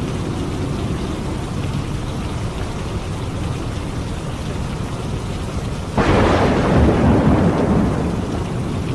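Steady rain falling, with a sudden clap of thunder about six seconds in that rumbles for a couple of seconds and then fades.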